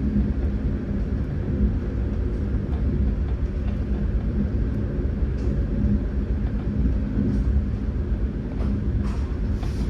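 Passenger train running along the track: a steady low rumble with a constant hum, and faint hissing near the end.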